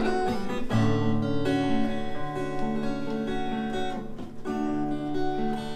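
Acoustic guitar strumming and letting chords ring, with fresh strums about a second in and again near the end.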